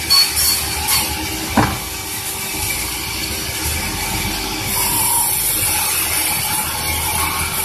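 Sawmill saw running and cutting a large durian log: a steady hiss over a constant hum, with a few sharp knocks in the first two seconds.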